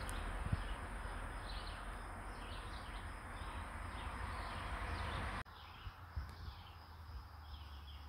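Songbirds chirping in short repeated calls over a steady rushing noise, which cuts off abruptly about five seconds in, leaving the birdsong on its own.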